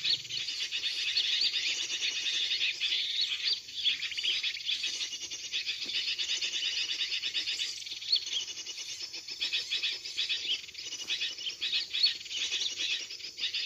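Dense, unbroken chirping and chattering of small birds: a bird-trapping lure call of a noisy sooty-headed bulbul mixed with small-bird calls.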